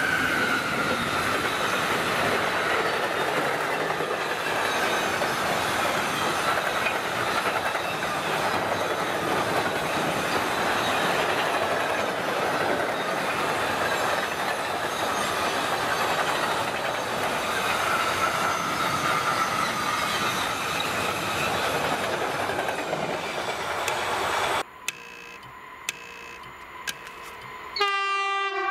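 Empty two-level car-carrier freight wagons rolling past close by, with a steady rolling clatter and a faint high wheel squeal now and then. After a sudden cut it goes quieter, and near the end a locomotive's horn sounds one steady blast from down the line.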